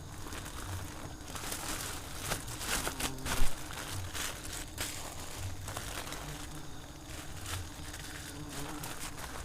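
Swarm of giant honey bees (Apis dorsata) buzzing around their nest, with rustling and a single sharp knock about three and a half seconds in.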